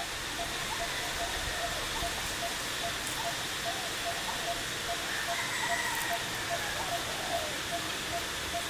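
Outdoor ambience: a steady hiss with faint high steady tones, and a short low note repeating evenly about two to three times a second.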